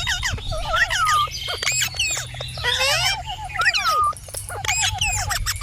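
Indian ringneck parrot chattering: quick runs of rising and falling whistled calls and squawks, with a similar phrase coming back about every two seconds, over a steady low hum.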